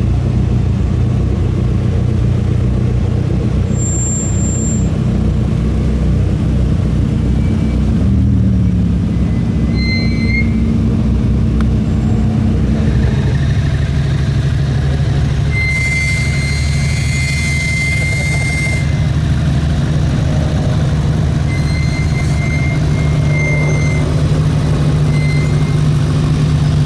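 Car engines idling and moving at low speed, with a steady deep engine note throughout. The pitch drops about a third of the way in and shifts again near the middle. A high steady tone sounds for a few seconds past the middle.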